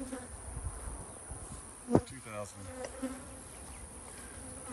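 Honeybees buzzing around the hives, a steady hum with a low droning pitch. A single sharp knock about two seconds in.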